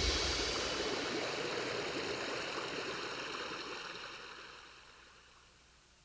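A steady rushing noise with no clear tone, fading out over the last couple of seconds.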